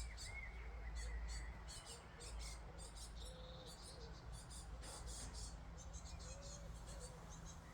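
Backyard birds chirping and calling: many quick high chirps with short whistled notes among them, over a steady low rumble.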